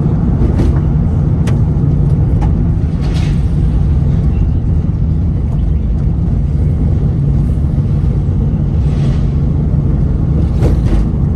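Road and engine noise of a moving car heard from inside the cabin: a steady, loud low rumble, with a few brief clicks.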